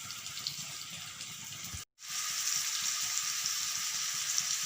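Chicken pieces sizzling as they shallow-fry in hot oil in a pan: a steady hiss that cuts out briefly about two seconds in and comes back louder.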